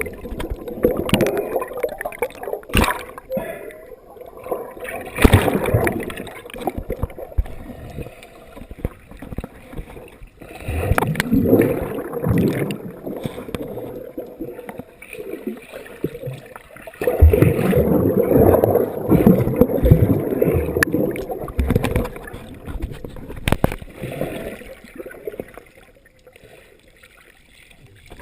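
Water gurgling and splashing close to the microphone in irregular surges, with a few sharp knocks and some voices now and then.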